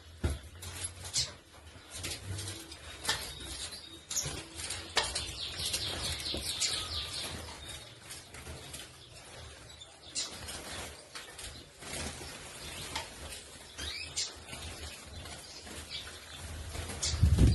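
Many small wild birds chirping and fluttering their wings, with scattered sharp knocks and clicks. About five seconds in, a bird gives a run of quick, high chirps.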